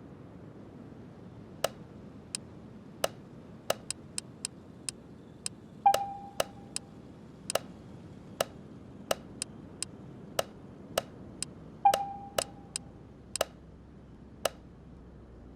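Irregular sharp clicks and taps of small hard parts being handled, roughly one or two a second. Two louder knocks, about 6 and 12 seconds in, each ring briefly with a clear metallic tone.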